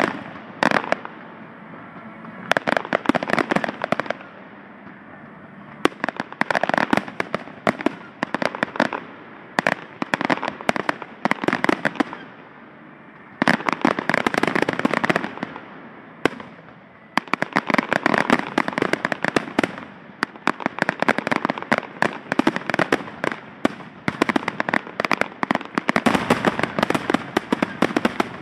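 Fireworks crackling: dense clusters of rapid small pops, each lasting one to four seconds, with short quieter lulls between them.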